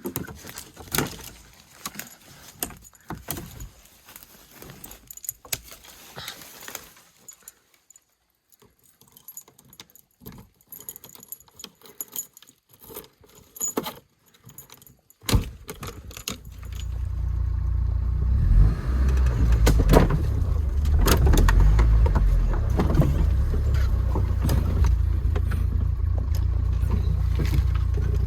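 Keys and small clicks and rattles for about the first half, a sharp knock, then the Lada Niva's engine starts and runs steadily with a low rumble.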